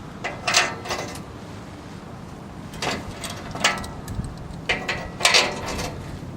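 Metal hand tools clanking and clicking in several short runs, about three bursts spread over the few seconds, as work on a car's exhaust gets under way.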